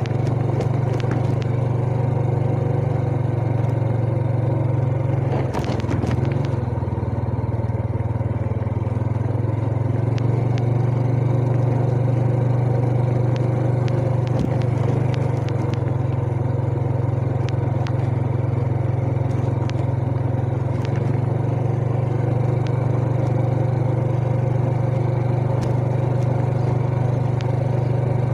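Yamaha Jupiter Z underbone's single-cylinder four-stroke engine running steadily while riding. The engine note dips briefly twice, about six and fifteen seconds in, and there is a short knock just before the first dip.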